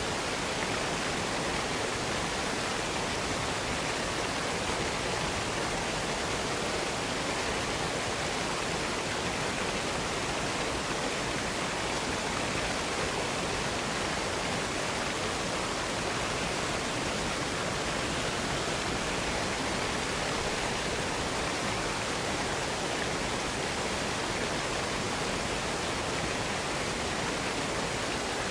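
Waterfall: water falling and running, an even, steady rush of noise with no breaks or changes.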